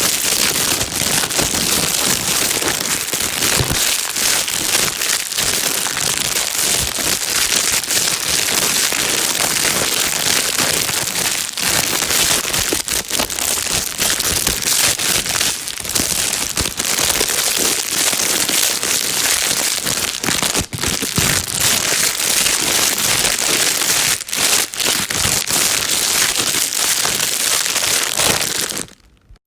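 Plastic bag being crumpled and rustled without a break, a dense crackling. It drops out almost to silence for a moment near the end.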